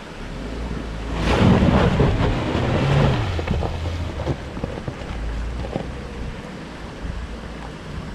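Suzuki Jimny four-wheel drive pushing through a river crossing: water surging and splashing around the vehicle over a low engine hum, loudest a second or two in, then easing off.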